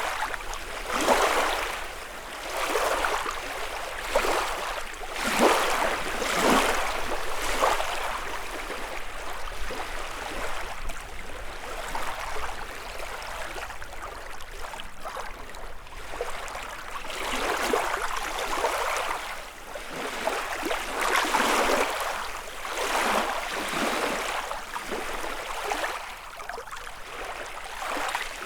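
Small lake waves lapping and breaking against the shore, one wash every second or two, with a calmer stretch midway before the waves build again.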